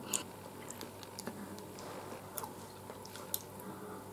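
A person chewing pizza: faint, scattered mouth clicks and soft crunches, with a bite into the slice near the end.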